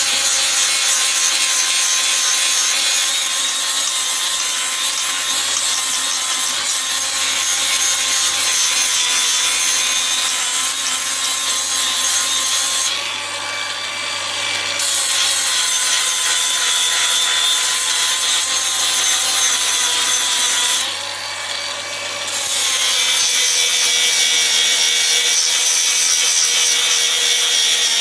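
Angle grinder working steel plate: a loud, steady grinding hiss over the motor's whine. Twice the disc comes off the work briefly, and the grinder keeps spinning more quietly before biting in again.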